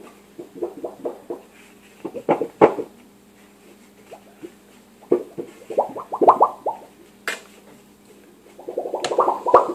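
A hand-held object being shaken, giving clusters of quick, hollow popping plops in short runs, with a denser, louder run starting near the end.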